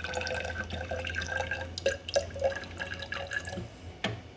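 Hydrogen peroxide solution being poured in a thin trickle into lab glassware, with a steady pitch ringing through it; the pour stops about three and a half seconds in, followed by a light tap.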